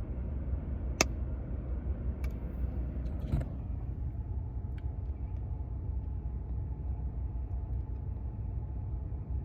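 Steady low rumble like a car's cabin with the engine running, with a sharp click about a second in and a few small clicks and a brief rustle around two to three seconds in.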